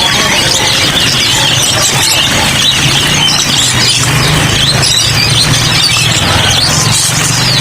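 Many caged songbirds chirping and twittering at once, a dense chorus of overlapping short calls, with a steady low hum underneath.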